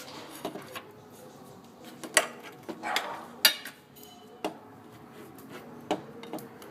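Metal tools and parts clinking and clanking as they are handled: about six sharp, irregularly spaced knocks, the loudest about three and a half seconds in.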